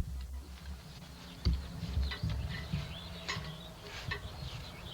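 Small birds chirping in short, quick calls, clustered in the second half. A single sharp knock comes about a second and a half in.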